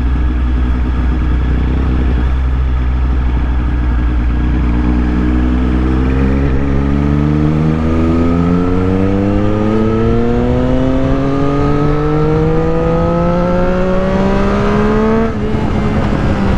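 Triumph Street Triple 765 RS three-cylinder engine through a full Spark exhaust system with a Konix Evo end can and the catalyst removed, running steadily under way. About six seconds in it begins one long, even rise in revs that builds for some nine seconds, then the revs drop sharply near the end.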